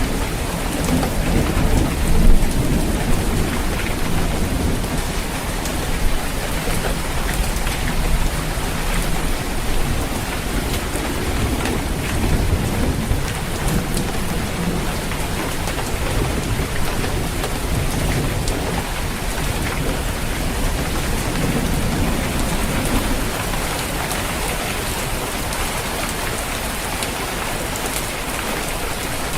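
Steady rain falling on a roof, with rolling thunder rumbling low through much of it and a sharper crack about two seconds in; the thunder fades near the end, leaving the rain.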